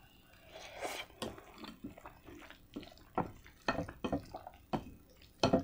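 Wet mouth sounds of someone chewing a mouthful of spaghetti: irregular soft smacks and clicks, a few louder ones near the end.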